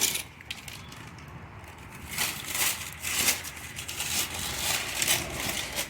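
Handling noise: crinkling and rustling in several short bursts.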